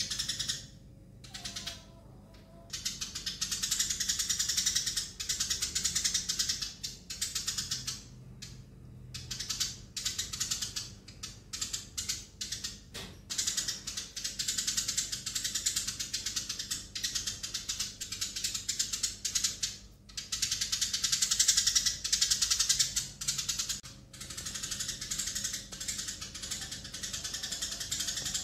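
Eurasian tree sparrows chirping in a rapid, dense chatter of high chirps, broken by a few short pauses.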